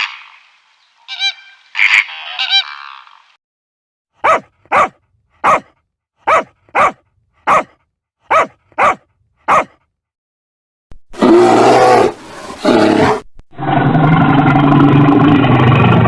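A run of animal calls: goose honking at the start, then about ten short barks from about four seconds in, then two longer rough, loud calls near the end.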